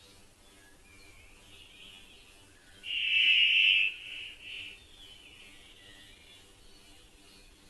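Birds calling: faint high chirps throughout, with one loud call about three seconds in that lasts about a second, then a shorter call right after.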